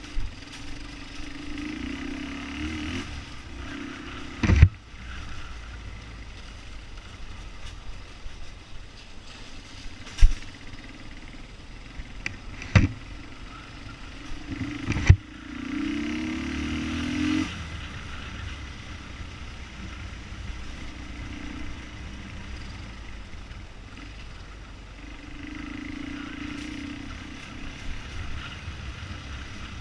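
Motorcycle engine running while riding, its note rising and falling at times. Four sharp knocks stand out, at about 4, 10, 13 and 15 seconds in.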